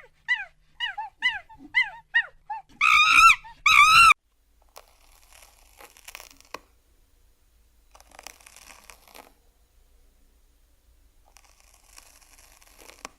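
A small animal's high-pitched whimpering cries: a quick run of short falling calls, then two louder, longer cries about three and four seconds in. Only faint rustling follows.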